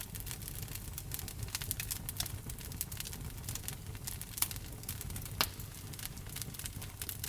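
Wood fire burning in a fireplace: a steady low rumble and hiss of flames with frequent small crackles and snaps. Two louder pops stand out, a little past the middle.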